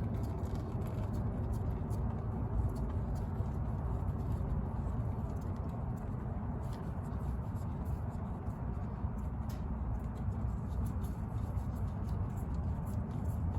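Faint small clicks and scraping from hands and tools working the engine oil filter loose, over a steady low background rumble.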